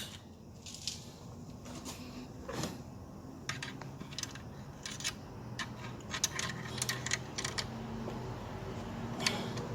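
Scattered light clicks and taps of hands handling small plastic and metal parts in a car's engine bay. A run of quick clicks comes in the second half.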